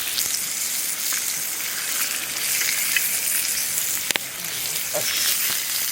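Lamb samgyeopsal sizzling as it fries over a campfire: a steady hiss with faint ticks and one sharp snap about four seconds in.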